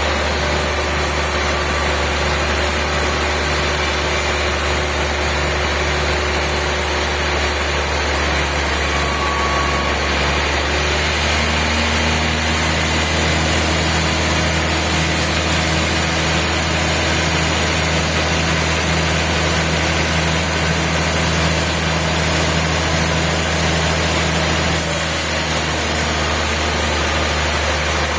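Sawmill machinery running: a steady engine-like drone with a constant low hum, shifting slightly in pitch a couple of times.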